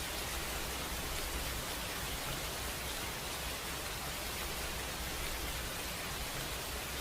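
Steady rain falling, an even hiss with no separate drops, thunder or music standing out.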